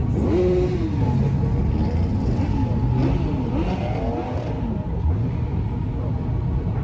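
Car engines revving, their pitch climbing and dropping several times over a steady low engine drone.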